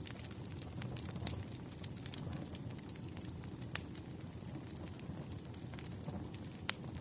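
Firewood burning: a soft, steady low rush with irregular sharp crackles and pops, the loudest pops about halfway through and again near the end.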